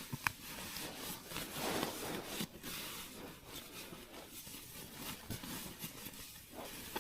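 Faint, irregular rustling and scraping with a few small clicks.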